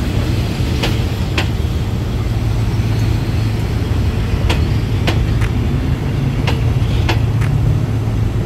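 State Railway of Thailand passenger coaches rolling slowly past, their wheels clicking over rail joints in pairs about half a second apart, over a steady low hum.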